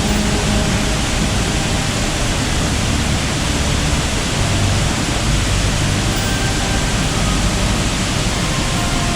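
Waterfall crashing down close by: a loud, steady rush of falling water with no breaks.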